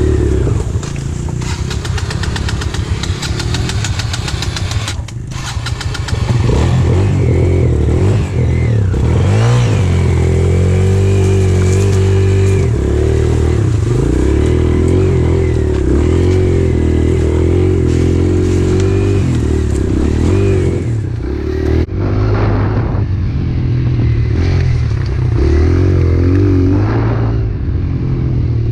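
Pit bike engine running, its pitch rising and falling as the throttle is opened and eased off.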